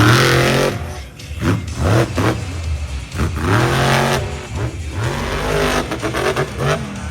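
Monster truck engine revving hard in repeated throttle bursts, its pitch climbing and dropping about five or six times.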